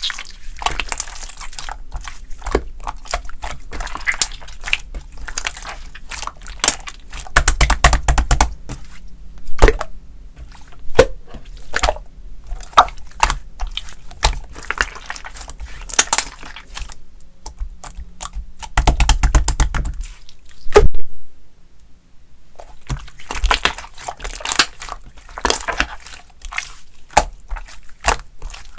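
Slime being squished, pressed and poked by hand, giving a dense run of quick sticky clicks, crackles and pops, with two spells of heavier low thudding and a brief lull about three quarters of the way through.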